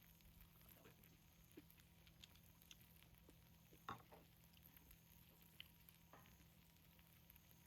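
Near silence with a few faint scattered clicks, the loudest about four seconds in.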